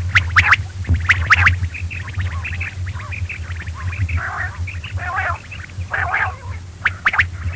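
Quail calling: sharp call notes in quick pairs and threes, with softer chirps and raspier notes in the middle stretch, over a steady low electrical hum.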